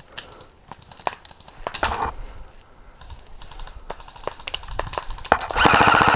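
Scattered light clicks and rustles of movement, then, about five and a half seconds in, an airsoft rifle fires a full-auto burst: a fast, even rattle of about twenty shots a second that runs on past the end.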